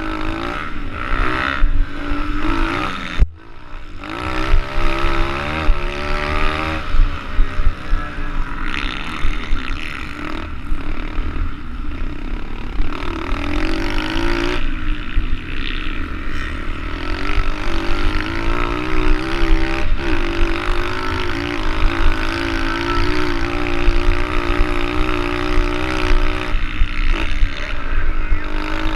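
Small four-stroke single-cylinder pit bike engine (SSR110) racing, its pitch rising and falling again and again as the throttle is opened and closed through the gears. There is a brief drop-off a little over three seconds in.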